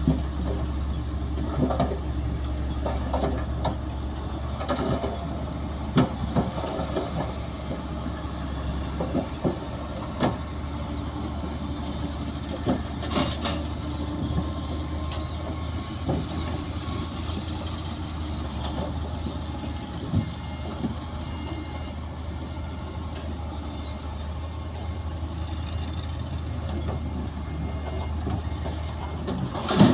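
Komatsu D60P bulldozer's diesel engine running steadily at a low pitch, with frequent metallic clanks and knocks from the machine working.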